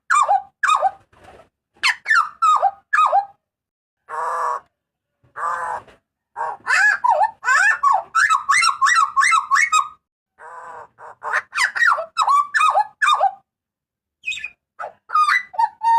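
Papuan butcherbird giving loud, harsh calls: rapid runs of short downward-sliding notes, broken by a few rasping notes, with brief pauses between runs.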